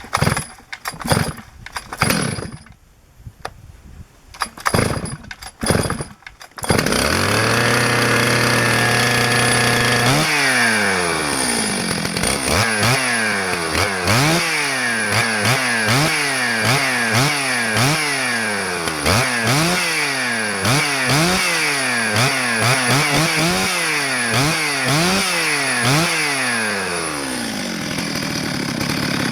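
Knocks and clatter, then a Stihl MS 651 two-stroke chainsaw starts and runs steadily. It is then revved repeatedly, the engine rising and falling about once a second, and settles back to idle near the end. The saw is running after a thorough cleaning.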